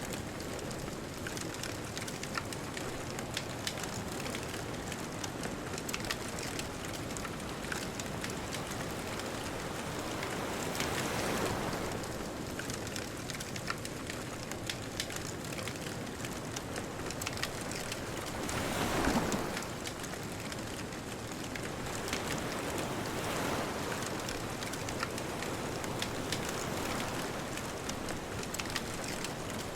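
Bonfire crackling with frequent small pops over a steady hiss, while ocean waves wash ashore in slow swells, the strongest a little past halfway through.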